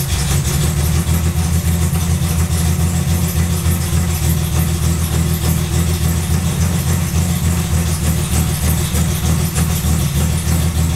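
BMW E3 2800's 2.8-litre straight-six engine idling steadily with an even pulse, still cold after a cold start.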